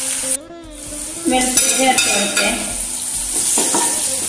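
Chopped shallots, garlic and green chilli frying in hot coconut oil in a nonstick wok, sizzling, while a spatula stirs and scrapes them around the pan. The sound dips briefly just after the start, and the stirring strokes begin about a second in.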